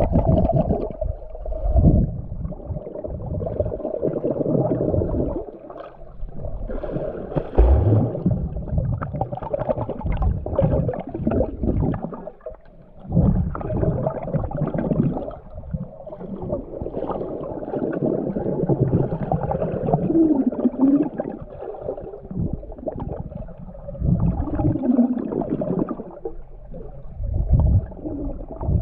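Muffled underwater sound of swimming-pool water heard through a submerged GoPro: water rushing and gurgling in uneven swells, with two short low warbles about two-thirds of the way through and near the end.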